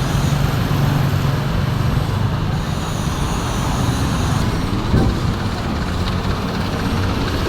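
A vehicle engine running steadily with a low hum, with a brief louder knock about five seconds in.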